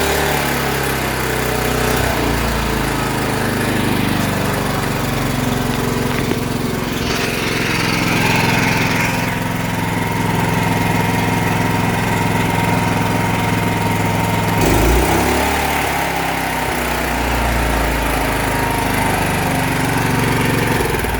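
Honda GX240 single-cylinder four-stroke engine on a Wacker generator running after a carburetor cleaning and new fuel lines. Its engine speed shifts a few times, with a sudden change about fifteen seconds in, as the economy throttle adjusts it.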